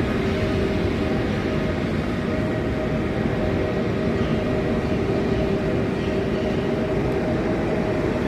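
EP07 electric locomotive running during shunting: a steady, loud hum with two held whining tones over rumbling noise.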